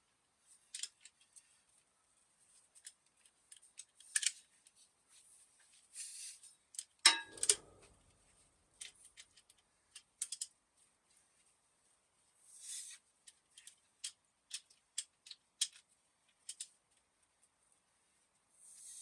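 Light clicks, taps and brief scrapes of hand tools and parts being handled, with one louder knock about seven seconds in.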